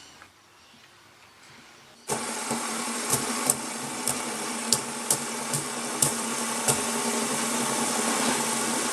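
A stack of fidget spinners spinning together, giving a steady mechanical whir with scattered light clicks. The whir starts abruptly about two seconds in, after a quiet start.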